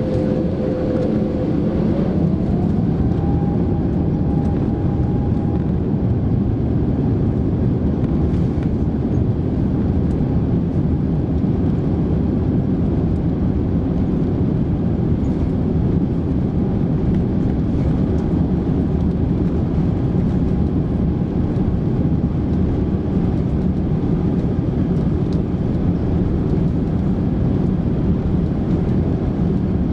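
Airbus A350-900's Rolls-Royce Trent XWB-84 jet engines heard from inside the cabin during takeoff: a steady roar and rumble, with an engine tone rising in pitch about two seconds in as thrust comes up, then held steady.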